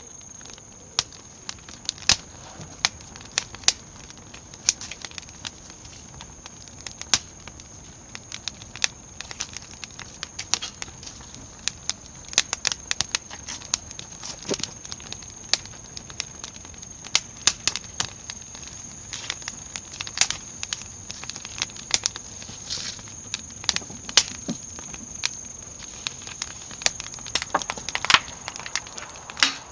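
Wood fire crackling in a campfire pit, with frequent irregular sharp pops over a low hiss. A steady thin high-pitched tone runs underneath.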